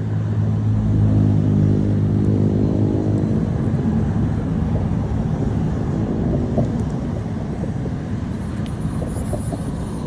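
A motor vehicle engine humming steadily over outdoor background noise. It is strongest in the first few seconds and then fades.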